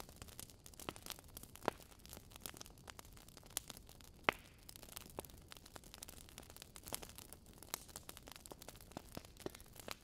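Wood fire crackling in a fireplace: a steady scatter of small irregular crackles over a soft hiss, with a few sharper pops, the loudest about four seconds in.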